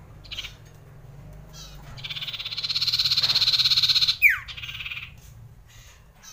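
Common iora singing a long rolling trill that swells in loudness for about two seconds, ending in a sharp falling note and a few short chattering notes. A brief call comes about half a second in.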